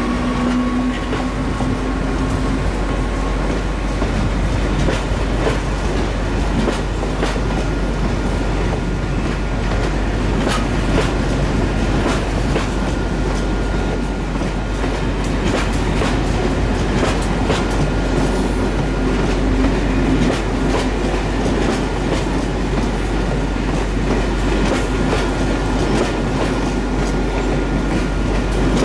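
A long train of SNCF passenger coaches rolling past at steady speed, wheels clicking over rail joints with a continuous rumble. A faint high wheel squeal comes and goes in the second half.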